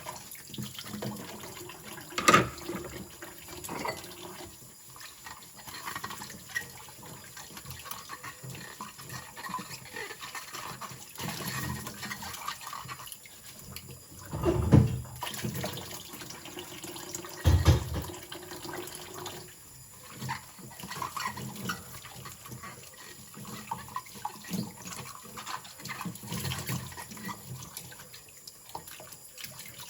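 Water running and splashing in a kitchen sink during a final rinse. Scattered clinks, a sharp clink a couple of seconds in, and two heavy knocks around the middle.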